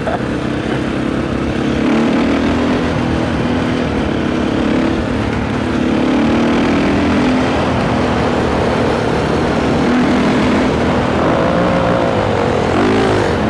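Single-cylinder four-stroke engine of a Husqvarna SMR 510 supermoto running at road speed, with wind noise on the microphone. The engine pitch rises and falls quickly near the end.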